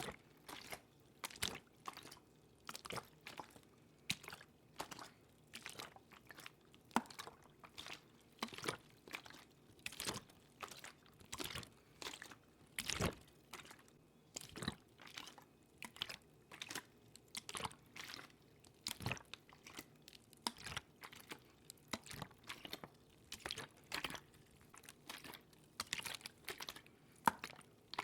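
Close-miked ASMR water sounds: a run of small wet clicks, crackles and squishes, a few every second, with no steady flow.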